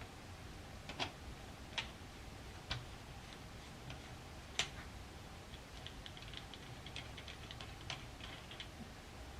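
Sharp metallic clicks and light taps from M1 Garand rifle parts being handled and worked by hand: a few separate clicks, the loudest about four and a half seconds in, then a quick run of small ticks near the end.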